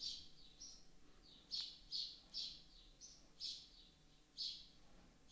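A bird chirping in the background: a string of about eight short, high chirps, roughly two a second, some in quick pairs.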